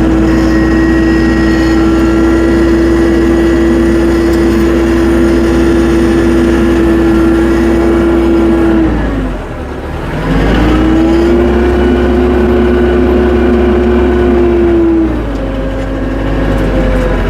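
Tractor engine running at steady high revs, sagging briefly about nine seconds in and picking back up, then easing off to a lower speed about fifteen seconds in.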